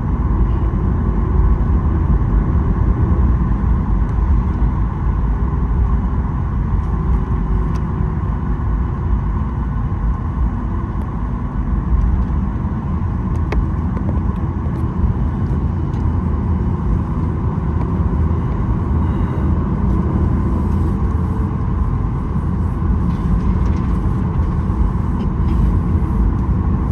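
Cabin noise inside a Boeing 737-900ER taxiing after landing: its CFM56-7B engines at idle give a steady low rumble with a constant whine.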